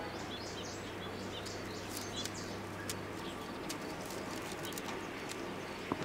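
Small birds chirping, a quick run of short high chirps in the first half, thinning out later, over quiet outdoor ambience.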